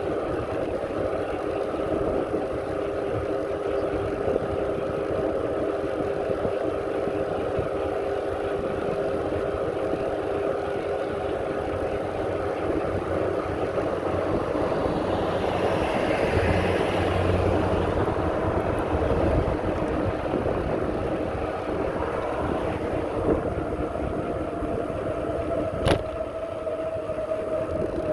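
Steady riding noise from a bicycle on a path: a low rumble with a steady whine. It grows louder and brighter about halfway through, and one sharp click comes near the end.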